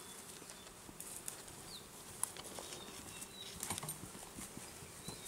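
Quiet forest ambience: faint rustling and scattered small clicks, with a few brief, faint high chirps.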